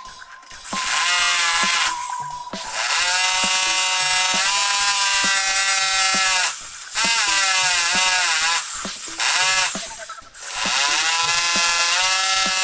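Electric drill running in four bursts, each spinning up with a rising whine, its pitch wavering under load in the third burst.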